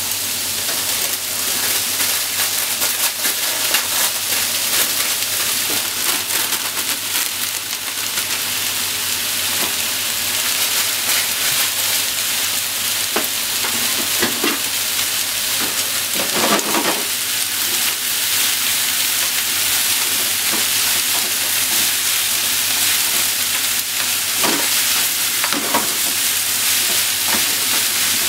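Pork and vegetables sizzling in a hot frying pan, a steady hiss, with a few knocks and scrapes now and then as vegetables go in and a wooden utensil stirs them in the pan.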